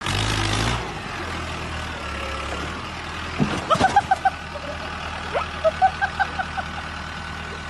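Tractor diesel engine running with a steady low hum, louder in the first second. Twice over it, from about three and a half seconds in, comes a quick run of short high-pitched chirps, about four a second.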